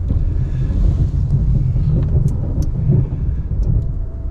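Ram 1500 Classic pickup's engine running as the truck pushes snow with its plow, a steady low rumble with a few light clicks.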